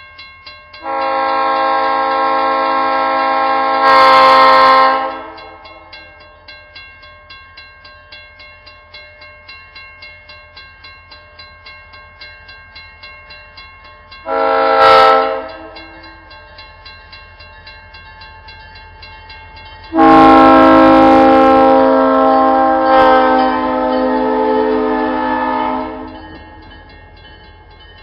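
Locomotive air horn sounding a long blast, a short one, then another long one, a steady multi-note chord. Between the blasts a bell rings steadily at about two to three strokes a second.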